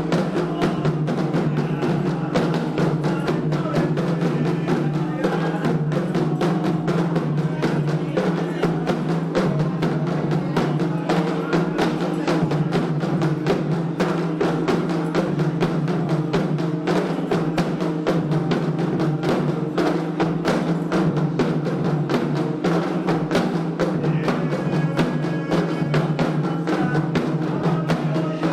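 Candomblé ceremonial drumming: hand drums (atabaques) beating a fast, continuous rhythm.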